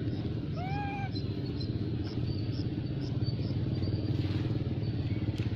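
A baby monkey gives one short cry that rises and then falls in pitch, about half a second in, over a steady low rumble.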